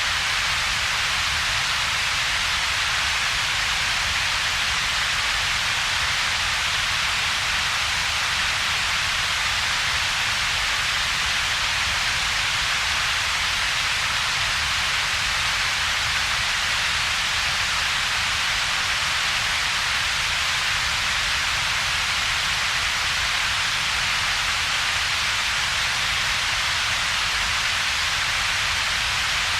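Computer-generated double-peaked noise: a steady, unchanging hiss with most of its energy in a broad band centred around 2 to 4 kHz and a second, weaker band of low rumble, with a gap in the lower mids between them.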